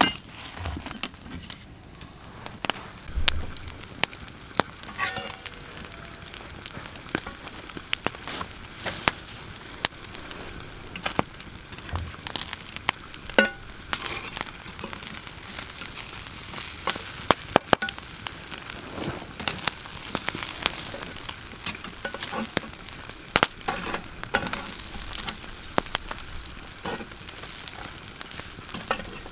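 Sausage sizzling over a campfire: a steady hiss with frequent sharp pops and crackles.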